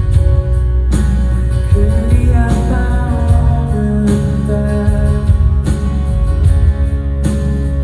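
Live band music with a male vocal line over guitar, bass and drums, heavy in the low end as heard from the audience.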